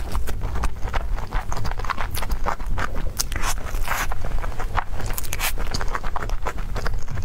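Close-miked chewing and biting of a soft cream-filled dessert: a dense, irregular run of wet mouth clicks and smacks.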